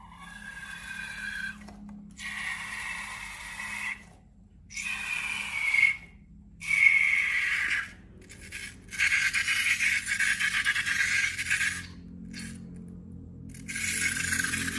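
Long rubber balloons and slime being rubbed and squeezed, making about six squeaky, scraping strokes, each a second or two long, with short pauses between.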